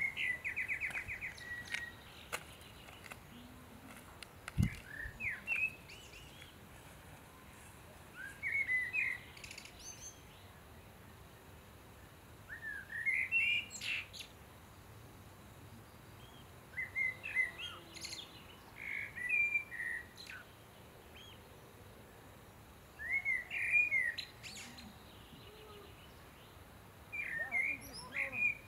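Songbird singing short, varied chirping phrases every few seconds, opening with a quick trill. A single low thump about five seconds in.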